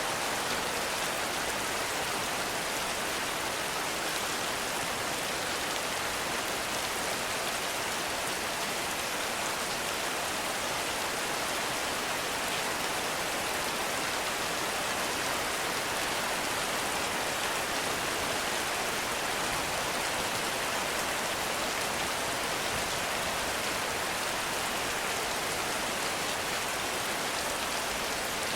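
Heavy rain falling steadily in a forest, an even hiss of drops with no breaks or thunder.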